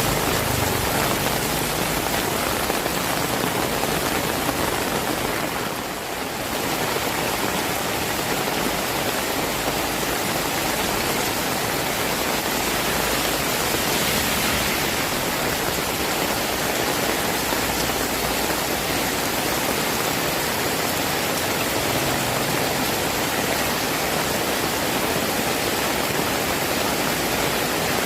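Heavy rain falling steadily, a dense even hiss, with a slight brief dip about six seconds in.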